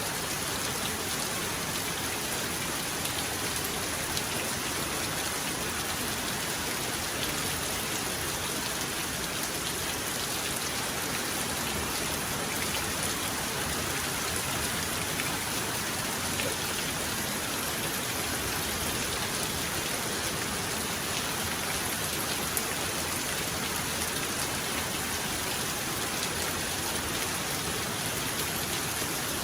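Heavy rain falling steadily, a dense even hiss with scattered individual drop ticks and no thunder.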